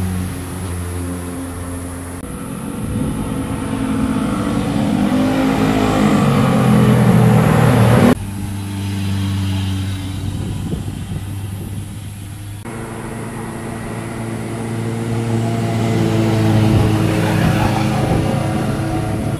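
Motorcycle engines riding past, the sound swelling louder as a bike approaches. It cuts off suddenly about eight seconds in, changes abruptly again a few seconds later, then builds once more toward another pass.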